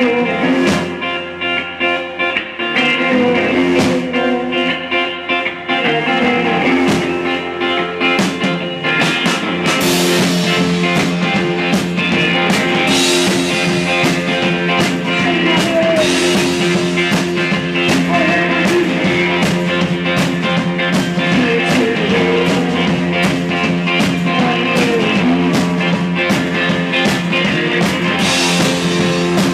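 Live blues-rock band playing an instrumental passage: distorted guitar held over drums with frequent cymbal and snare hits, growing fuller about two seconds in.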